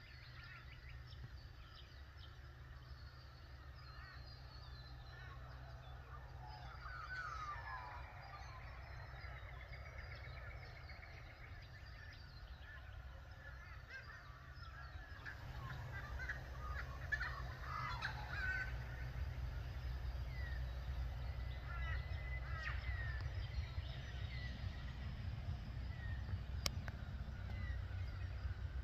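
Many birds calling and chirping together in a morning chorus, over a steady low rumble that grows louder about halfway through.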